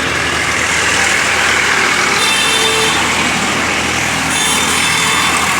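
A machine running with a loud, steady rushing hiss over a low hum, with a thin high whine coming in briefly twice.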